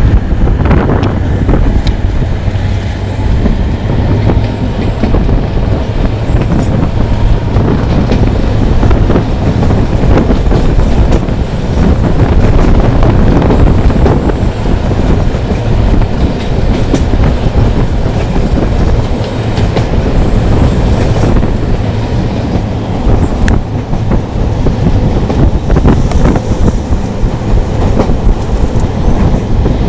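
Train hauled by a GT22CW diesel-electric locomotive running on the rails: a steady loud rumble with the wheels clacking over the track and now and then squealing.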